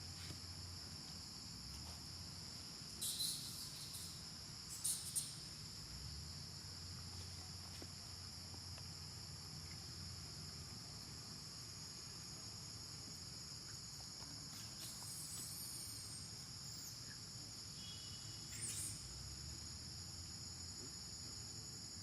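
Steady high-pitched drone of an insect chorus, crickets or cicadas, with a few short, sharp high calls or squeaks over it, the loudest about three and five seconds in.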